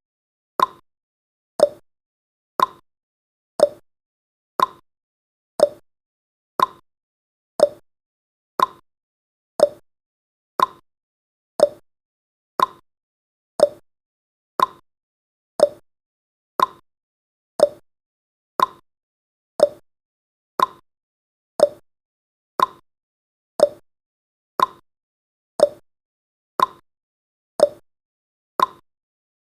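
Countdown timer's ticking sound effect: a short clock-like tick about once a second, each one dying away quickly.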